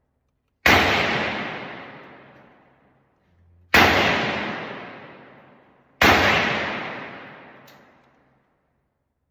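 Three AR-15 rifle shots, about three seconds and then just over two seconds apart, each echoing and dying away over about two seconds.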